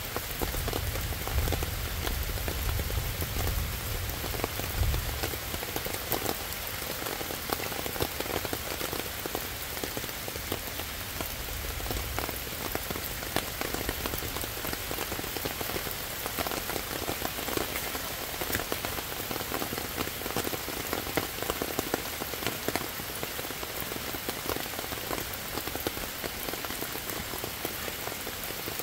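Steady rain falling on leaves and wet ground, with many separate drop hits. A low rumble sits under it for the first five seconds or so.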